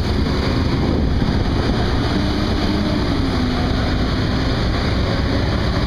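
Steady wind rumble on the microphone mixed with the noise of moving road traffic. From about two seconds in, a faint vehicle engine hum holds a steady pitch, then dips slightly.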